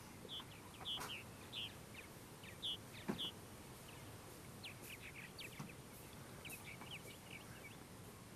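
Birds chirping, a scatter of short high calls, with a couple of faint knocks, the sharpest about three seconds in.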